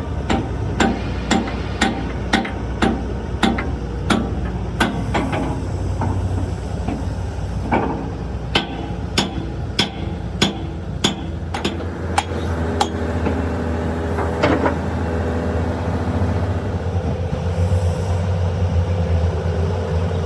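Hammer blows on metal at about two a second in two runs, with a pause of about three seconds between them and a last single blow a little later. A steady low hum runs underneath.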